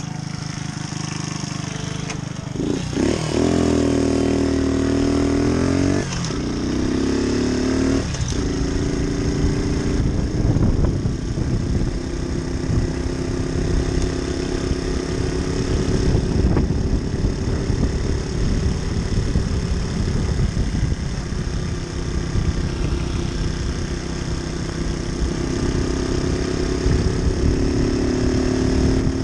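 Moped engine running while ridden. It revs up about three seconds in, holds high, drops back around six seconds, picks up again near eight seconds, then runs fairly steadily.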